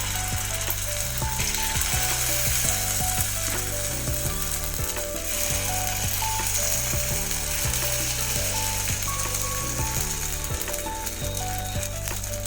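Dosa-batter ponganalu frying in hot oil in a gunta ponganalu (paniyaram) pan, a steady crackling sizzle, over soft background music.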